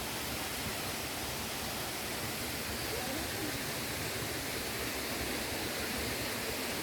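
Steady rush of a waterfall: the Argyle Waterfall's cascades, an even hiss of falling water.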